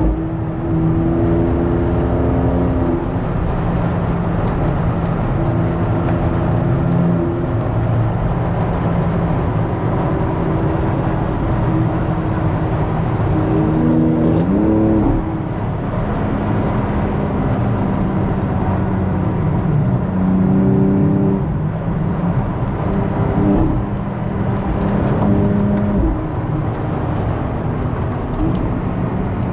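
Car engine running at speed over steady road rumble, its pitch stepping up and down with the throttle and gear changes; the engine revs up in a rising sweep about halfway through.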